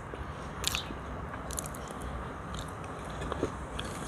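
A person chewing a mouthful of soft baked potato, with a few short, wet mouth clicks.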